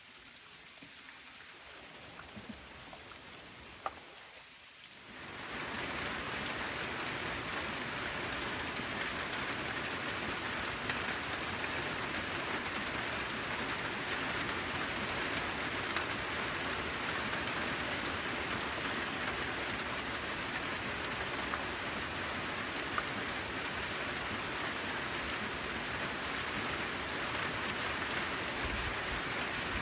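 A faint high insect trill over light rain, then about five seconds in the rain swells to a steady, dense downpour that continues evenly.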